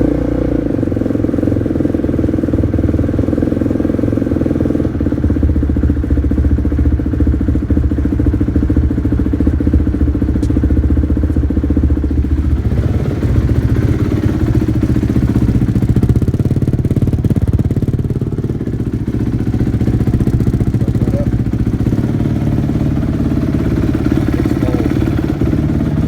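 2007 Honda CRF250R's single-cylinder four-stroke engine idling steadily on choke, cold, just after starting; the throttle isn't fitted, so it is not revved.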